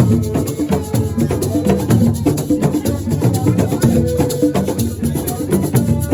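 Live assiko band music: a fast, dense percussion groove with shakers and clacking strokes over a moving bass line.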